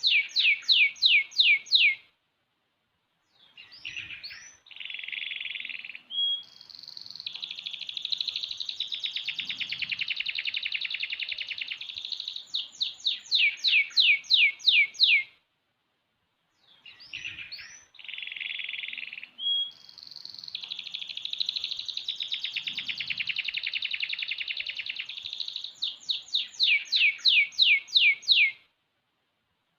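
A six-month-old domestic canary singing in full song: two long strophes of about twelve seconds each, made of rapid rolling trills and quick runs of falling whistled notes, with a short pause between them.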